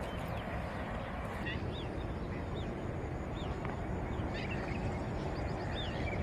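Birds chirping: short, arched high calls every second or so over a steady background hiss.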